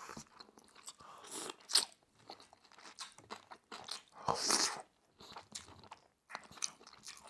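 Close-miked eating: a person chewing and biting into udon noodles and a broccoli floret, with small wet mouth clicks and a louder, noisier burst about four seconds in as the broccoli goes into the mouth.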